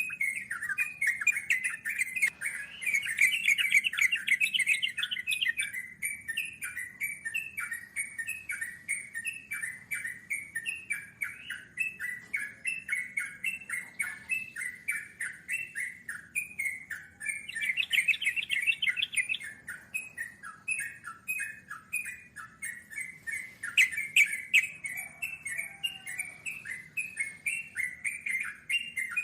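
Yellow-vented bulbuls (trucukan) singing a long, unbroken run of quick, repeated notes, the rapid rolling song that keepers call ngeropel. The song swells louder and denser about three seconds in, again around eighteen seconds, and briefly near twenty-four seconds.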